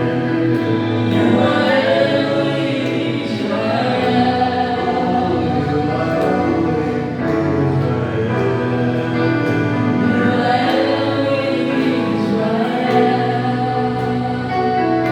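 Gospel worship music: a choir singing held, sustained notes over musical backing, continuous throughout.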